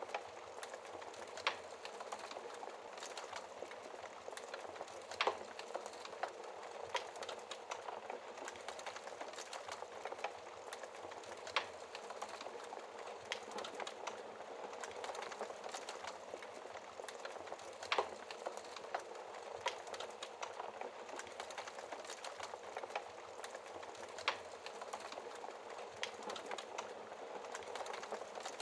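Wood fire burning in a fireplace: a steady hiss of flames with frequent small crackles and a sharp louder pop every few seconds.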